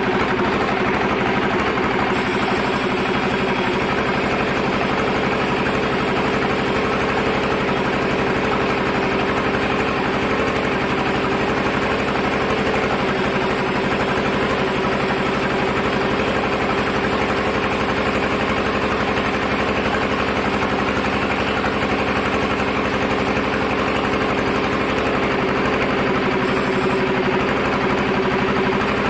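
Sawmill machinery running steadily, a constant engine-like hum that does not change.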